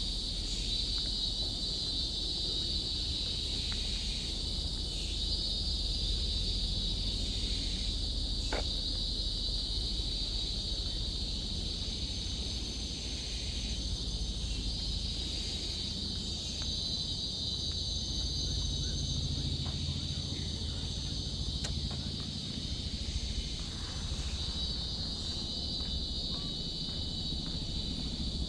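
A steady, high-pitched chorus of insects buzzing without a break, with a low rumble underneath and a single sharp click about eight seconds in.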